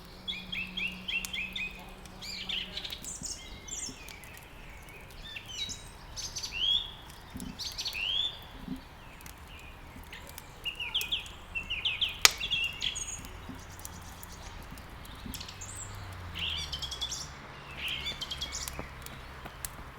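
Songbirds chirping and twittering in quick, overlapping phrases, over the sharp crackles and pops of wood burning in a fireplace, with one louder pop about twelve seconds in.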